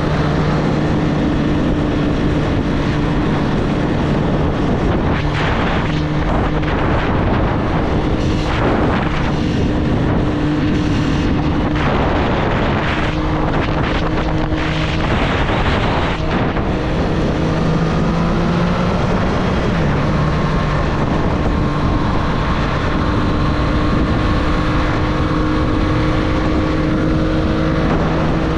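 Triumph Street Triple's three-cylinder engine running at a steady, fairly low speed, its pitch shifting only slightly, with bursts of wind noise on the microphone through the middle of the stretch.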